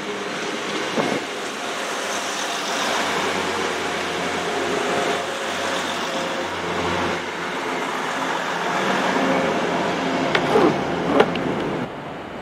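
A train running through the station: a steady rumbling rush with faint whining tones, and a few short squeals near the end before the noise drops away suddenly.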